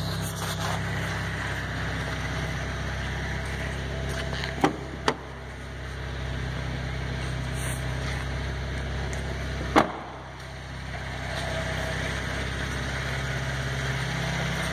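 Exhaust of a 2014 Cadillac ATS's 3.6-litre direct-injected V6 idling steadily through an aftermarket MagnaFlow rear muffler, which gives it a little bit of a throatier tone. A few sharp clicks sound over the idle, twice around the middle and once more later on.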